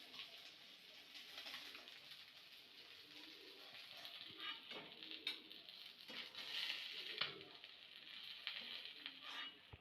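Food sizzling in hot oil in a pan, with scattered clicks and scrapes of stirring, busier in the second half, then cutting off suddenly at the end.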